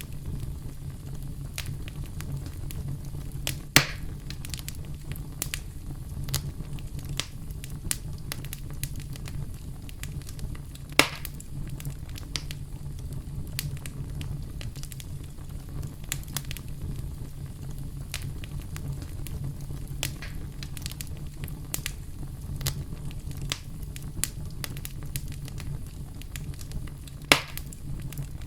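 Campfire crackling: a steady low rumble of burning wood under frequent sharp crackles, with three louder pops spread through.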